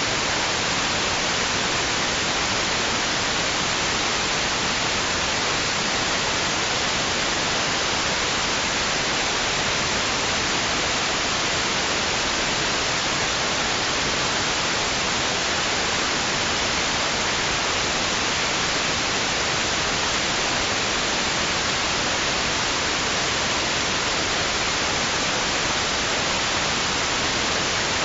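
Steady white noise: an even, unchanging hiss with no rise and fall.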